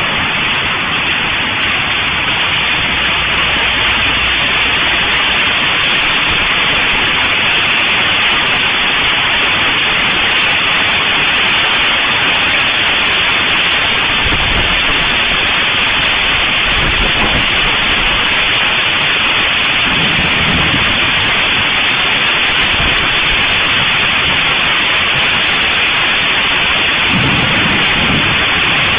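Heavy rain and hail pouring down in a windy storm, a steady loud hiss, with a few low rumbles around the middle and near the end.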